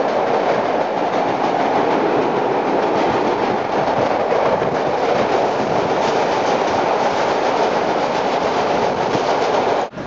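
Vintage 1930s New York City subway train running at speed: a steady loud rumble and rattle of steel wheels on the track, with faint clacks over the rail joints.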